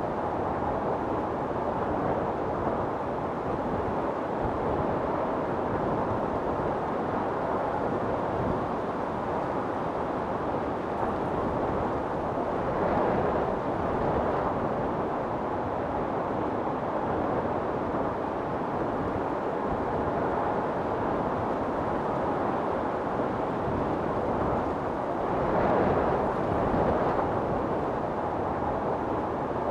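Wind storm blowing in a steady, dense rush, with two stronger gusts swelling, one near the middle and one near the end.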